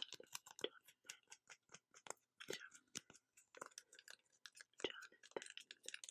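Dry ASMR mouth sounds: rapid, irregular clicks and smacks of tongue and lips, with faint breathy hiss between them.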